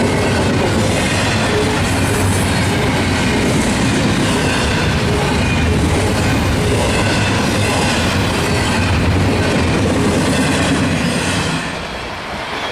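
Intermodal freight train's cars rolling past, a steady loud rumble and rattle of steel wheels on the rails. It turns somewhat quieter near the end.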